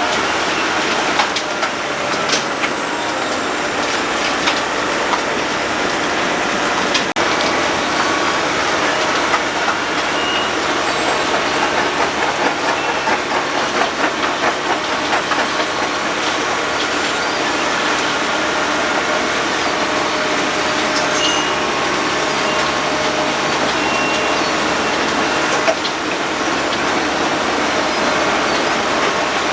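Road planer milling off the asphalt road surface: a loud, steady, dense mechanical noise with many small scattered clicks.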